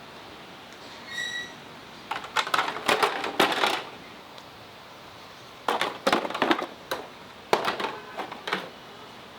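Small hard objects, metal parts or tools, clattering and clinking in three bursts of quick rattles, with a brief ringing ping about a second in.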